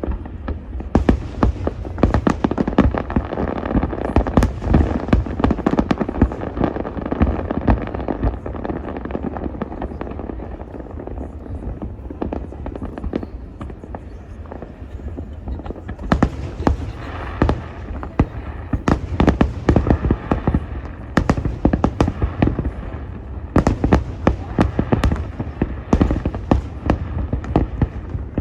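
Aerial fireworks display: a rapid run of shell bursts and crackles over a steady low rumble. The bangs thin out a little in the middle and come thick again in the second half.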